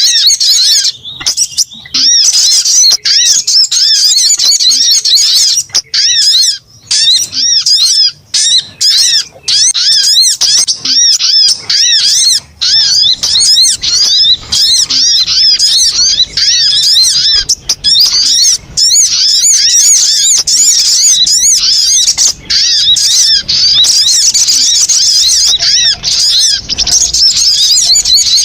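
Sogon bird calling: a continuous stream of rapid, high, arched chirps, many a second, with only brief pauses. This is a bird-trapping lure call, played to draw in wary sogon birds.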